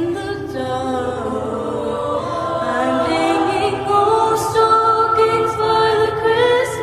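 School choir singing sustained notes in harmony without clear words, the parts moving up in pitch about halfway through.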